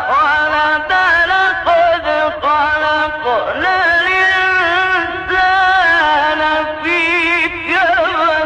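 Male Quran reciter chanting in the melodic Egyptian mujawwad style: long held notes with wavering ornaments, separated by short breaths.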